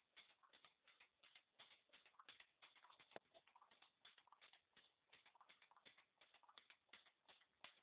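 Homemade Stirling engine made from aluminium drink cans, running with a faint, rapid ticking of about five clicks a second.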